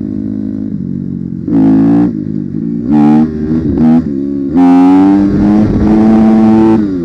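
Dirt bike engine running at low revs, given short bursts of throttle about one and a half, three and four seconds in. It is then held at higher revs for about two seconds before dropping back.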